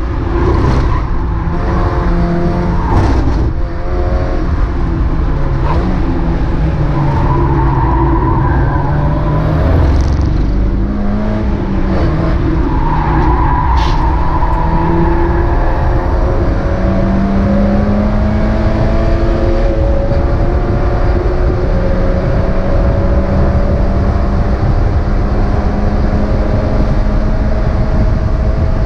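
Mazda MX-5 race car engine heard from on board, pulling hard. Its pitch climbs and drops several times as it shifts and lifts off, then rises slowly and steadily in a long run of acceleration.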